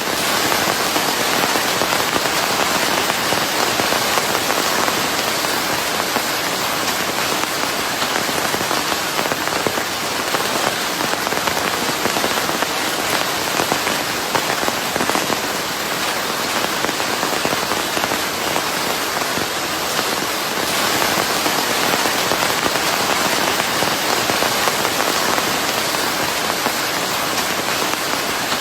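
Steady, dense rain falling on a surface, with fine crackling drop impacts, blended with a white-noise hiss.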